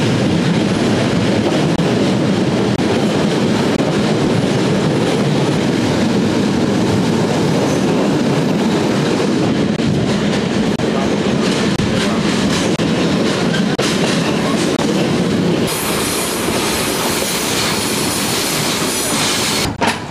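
Flåm Railway train running on the track, heard from aboard: a steady, loud rumble of wheels on rail. About sixteen seconds in, the sound turns brighter and hissier.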